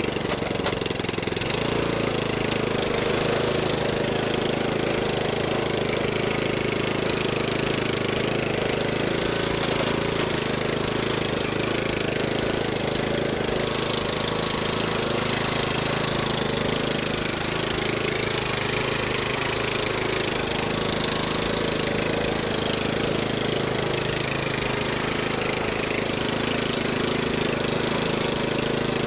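A 14.5 hp Briggs & Stratton OHV garden tractor engine running steadily at an even speed.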